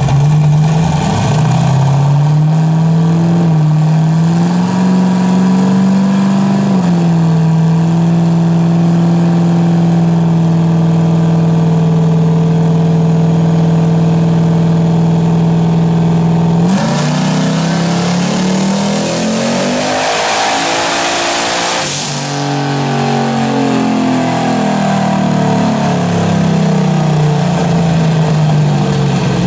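Turbocharged 5.3 LS V8 in a Mustang on a chassis dyno, running steadily in gear for a while. About 17 s in it makes a wide-open-throttle pull, the engine note climbing with a high turbo whistle rising over it. The pull cuts off sharply about 22 s in, and the engine speed then winds back down.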